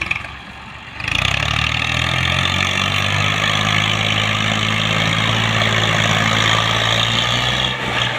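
Tractor engine running loudly and steadily. It comes in about a second in, holds an even pitch, and eases off near the end.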